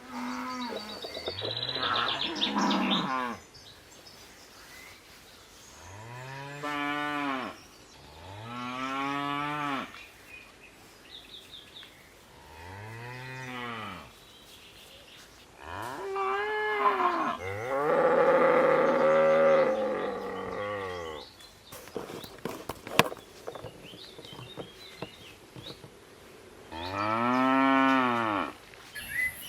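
Cows mooing, about seven long calls in turn, each rising and then falling in pitch.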